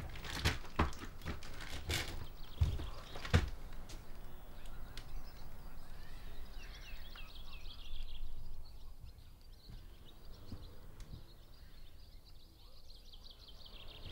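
Faint ambience with small birds chirping high and thin, after a few soft knocks in the first few seconds.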